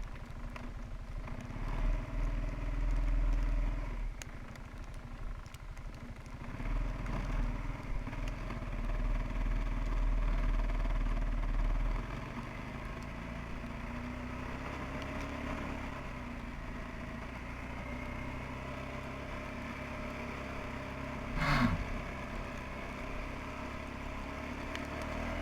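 Quadrunner 300 ATV engine running in first gear, pulling through deep snow. It swells louder twice, between about two and four seconds in and again from about seven to twelve seconds, then settles to a steadier, quieter note. A brief sharp sound with a falling pitch comes about three-quarters of the way through.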